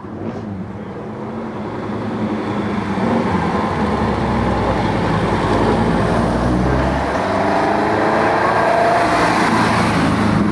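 Marcos sports car engine driving up the course, growing louder over the first few seconds and then running steadily with a deep rumble. Near the end the engine note rises and falls as it revs.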